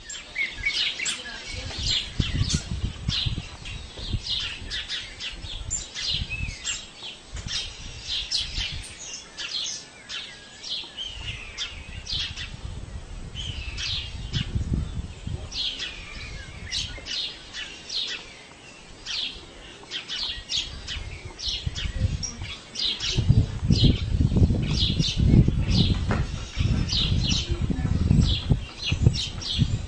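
Birds chirping continuously, many short, rapid chirps overlapping. Beneath them runs a low rumbling noise that grows heavier for the last several seconds.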